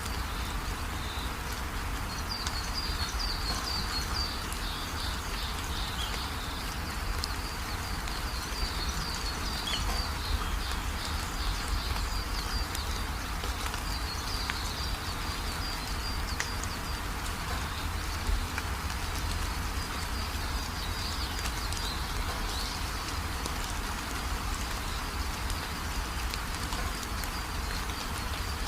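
Steady rain falling, with birds chirping in repeated runs of short, high calls through much of it.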